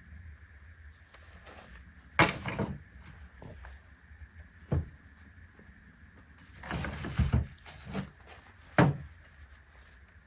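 Several sharp knocks and clunks from gear being handled at the truck, with a short stretch of rattling and scraping between them. The loudest knocks come about two seconds in and near the end.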